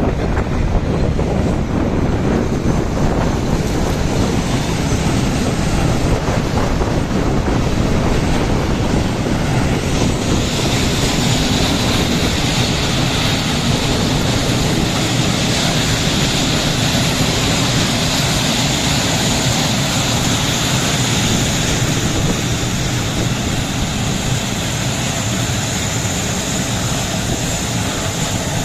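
Train passing close by: a loud, steady rumble of wheels on rails, with a steady high whine joining about ten seconds in.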